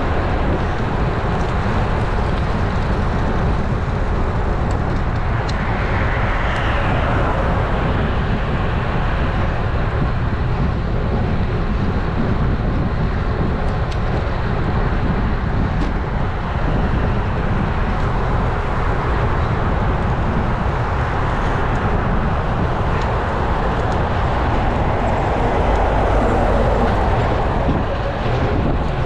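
Steady wind rush on an action camera's microphone while riding a road bike, mixed with tyre and road traffic noise. The noise swells louder about six seconds in and again near the end.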